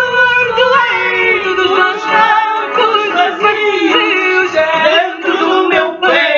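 Fado music: a singing voice holding long, wavering, ornamented notes over the instrumental accompaniment.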